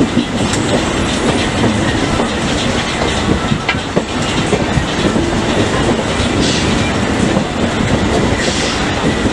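Indian Railways express train running along the track: a steady rumble with the clickety-clack of wheels over rail joints.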